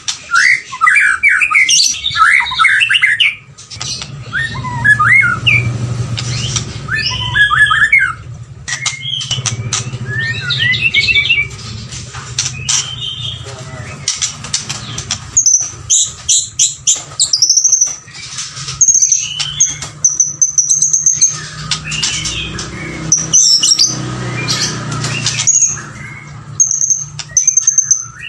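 White-rumped shama singing: rapid, varied whistled and chattering phrases, then from about halfway a high note repeated over and over, with sharp clicks in between. A low hum runs underneath through the middle stretch.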